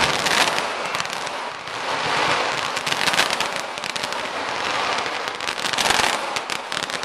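Feu de joie: blank rifle rounds fired in rapid succession down the ranks, a dense, continuous crackle of many sharp shots.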